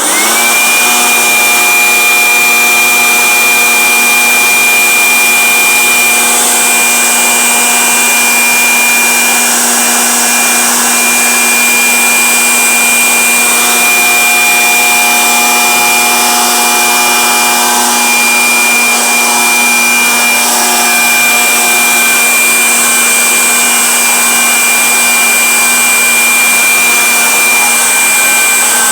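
Electric fan switching on, its motor whine briefly rising in pitch as it spins up, then running steadily with a high whine and a constant rush of air.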